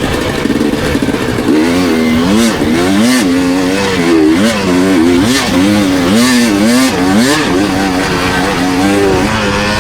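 Dirt bike engine being ridden hard, its pitch repeatedly rising and falling in quick swells as the throttle is opened and closed.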